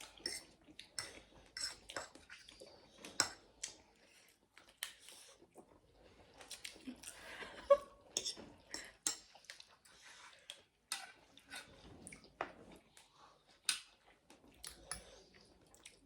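People eating close to the microphone: irregular chewing, small crunches and clicks of utensils on plates, with one louder knock about halfway through.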